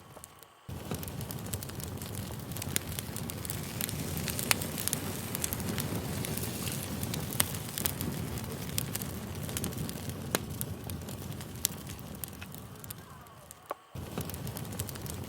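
Campfire crackling steadily, with frequent sharp pops of burning wood. The fire sound fades and cuts back in abruptly near the start and again shortly before the end, like a looped recording restarting.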